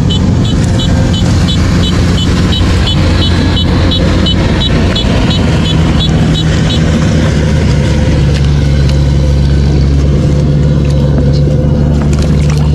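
An engine running steadily at constant speed, its low hum shifting slightly in pitch partway through. Over the first half a quick, regular high chirp repeats about three times a second.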